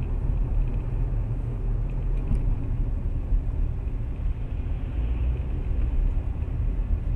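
Steady low rumble of a car driving, engine and road noise as heard inside the car's cabin.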